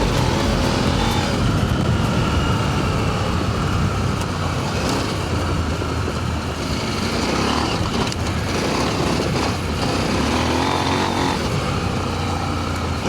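Adventure motorcycle running steadily while riding along a dirt trail, engine and riding noise at an even level.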